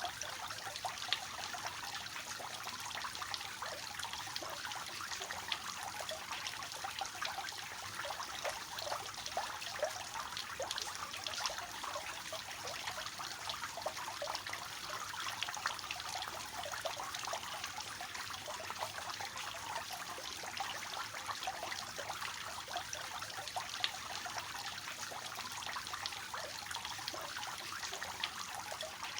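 Water falling from a three-tier cascading fountain, splashing and trickling steadily.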